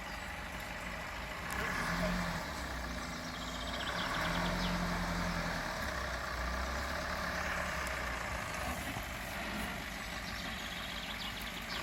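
Off-road 4x4 engine running, swelling louder twice, first about a second and a half in and again for a few seconds from about four seconds in.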